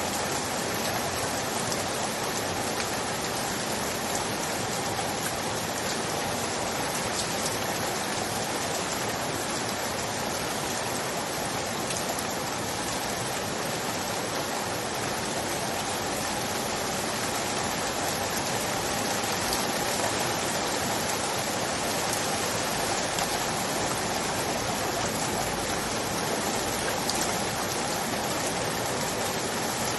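Steady, dense rainfall, an even hiss with scattered faint drop ticks.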